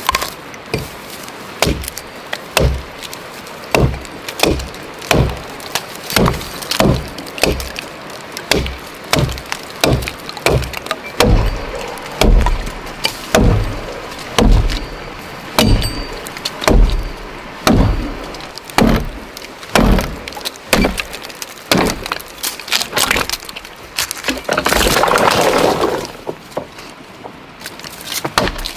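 Wood being chopped or split with repeated blows, about one to two a second, each a sharp crack with a dull thud. A second or so of rustling comes near the end before a few last blows.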